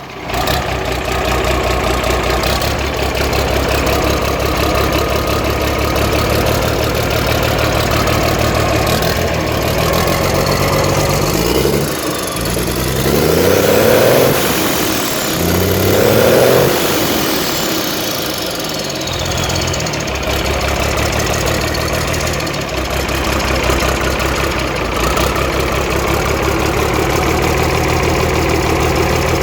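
Mercedes-Benz OM366A inline-six turbo diesel idling steadily, just after starting. About halfway through it is revved twice, the pitch rising and falling each time with a faint high whistle following the revs, then it settles back to idle.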